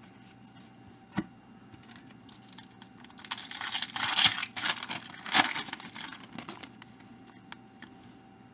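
A baseball card pack's wrapper being torn open: crinkling and tearing for about three seconds, with two sharper rips. A single click comes about a second before it.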